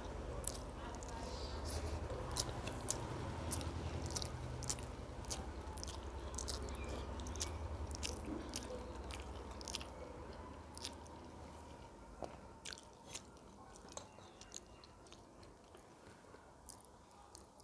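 A person chewing food close to the microphone, with many sharp wet mouth clicks and some crunching. A low hum underneath fades out about two-thirds of the way through.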